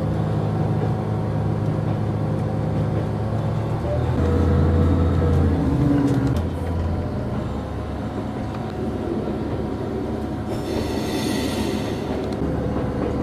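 Diesel railcar running along the track, heard from inside the carriage: a steady low engine drone that changes pitch and grows louder about four seconds in. About ten and a half seconds in a high-pitched screech, typical of wheels squealing, sounds for just over a second.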